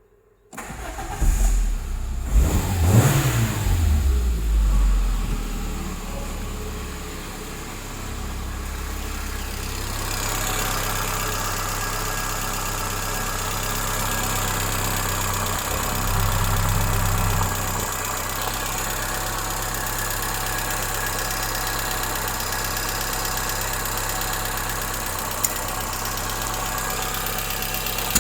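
Peugeot 306's 1.6-litre TU5JP (NFZ) four-cylinder petrol engine starting about half a second in, revving up and back down over the first few seconds, then idling steadily, with a brief rise in engine speed a little past halfway.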